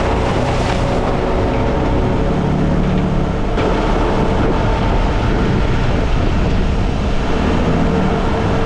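Off-road vehicle driving a rough mountain trail: a steady engine and drivetrain rumble with road noise. The sound changes abruptly about three and a half seconds in.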